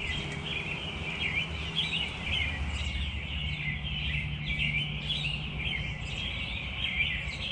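A chorus of many small birds chirping and twittering without a break, short high calls overlapping, over a faint low hum.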